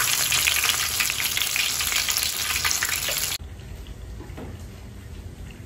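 Battered shrimp fritters deep-frying in hot oil in a pan: a dense, steady sizzle and crackle. It cuts off abruptly about three and a half seconds in, leaving quiet room sound.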